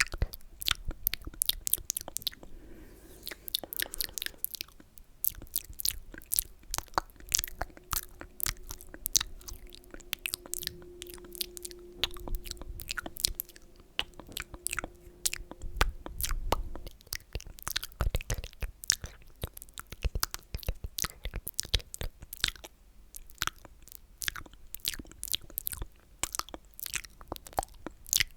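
Close-miked wet, sticky mouth sounds: a dense, irregular run of tongue and lip clicks and smacks.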